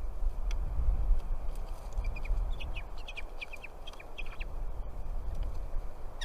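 Birds chirping: a quick run of short, high chirps lasting about two seconds, with a few more near the end, over a steady low rumble.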